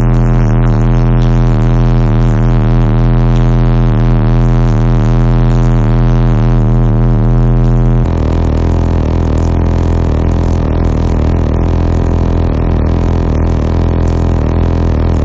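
Bass-heavy music played very loud through a car audio system's four Fi Omega 15-inch subwoofers on 32,000 watts, with deep, droning bass notes. About 8 seconds in, the bass drops to a lower, steadier note.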